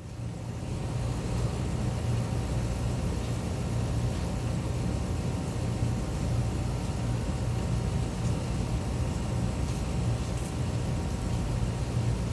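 Steady low mechanical rumble with a faint hum over it, unchanging throughout.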